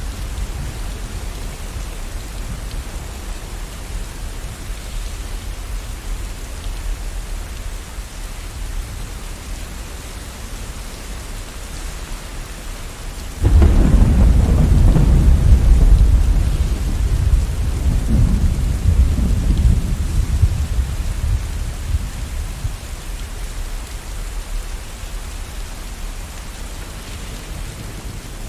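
Steady rain with a thunderclap about halfway through: a sudden loud crack that rolls into a deep rumble for several seconds, then fades back under the rain.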